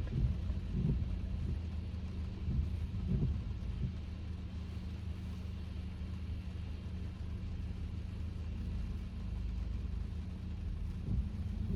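Steady low drone of a Kia K5 sedan heard from inside the cabin while driving: engine and road noise, with a few faint knocks in the first few seconds.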